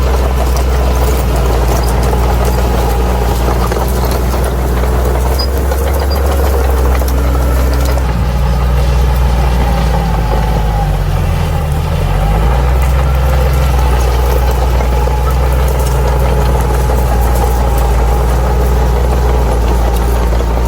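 Crawler bulldozer's diesel engine running steadily while it works. About halfway through, the engine note drops and then climbs back, as it bogs under load and recovers.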